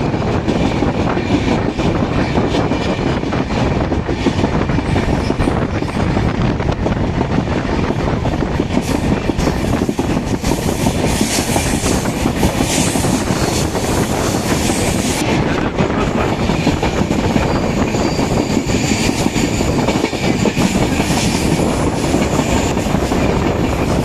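Indian Railways passenger train running along the track, heard from on board: a steady rumble and rattle of the wheels on the rails, with a thin high squeal at times in the second half.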